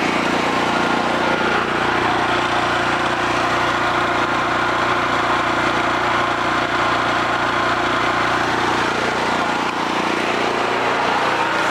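Homelite 5000-watt portable generator's single-cylinder engine running steadily.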